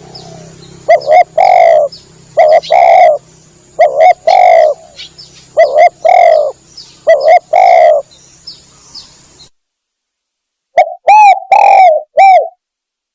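Spotted dove cooing: repeated short phrases of a quick note followed by a longer coo, about one every second and a half. The sound breaks off to silence past the middle and resumes with a cleaner cooing phrase near the end.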